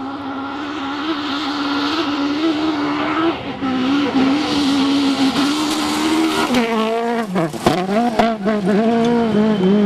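Rally car engine held at high revs. About six and a half seconds in, the revs drop sharply and climb again, with a series of sharp cracks, the loudest near eight seconds.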